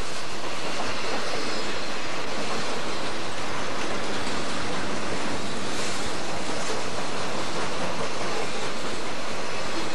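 Southern Pacific freight train's boxcars rolling past close by: a steady, even roar of steel wheels on rail.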